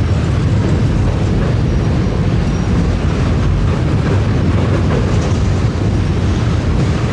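Train rolling past close by: a steady, loud rumble of wheels on the rails with some clickety-clack.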